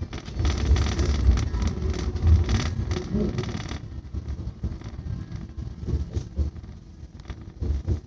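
Running noise of an electric airport express train heard from inside the carriage: a low rumble with rattle and hiss. It drops noticeably in loudness and brightness about four seconds in, as the train runs alongside a covered station platform.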